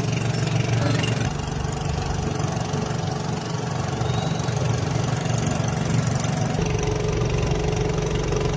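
An engine running steadily at a low idle-like speed. Its note deepens about six and a half seconds in.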